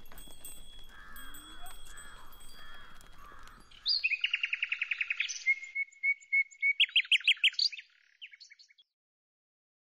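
A songbird singing: a fast trill, a run of short repeated notes, then another trill, starting about four seconds in over faint outdoor ambience. It stops short before the end, cutting to silence.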